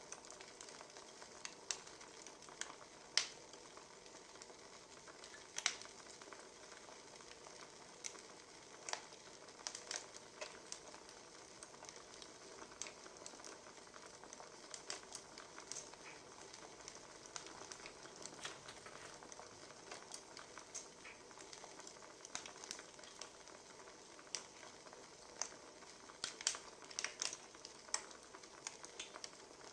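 Burning firewood crackling: a soft steady hiss with irregular sharp pops and snaps, coming more thickly near the end.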